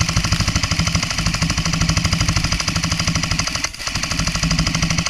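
Airsoft electric machine gun firing a long full-auto burst: a rapid, even clatter over a steady tone, with a brief break about three and a half seconds in.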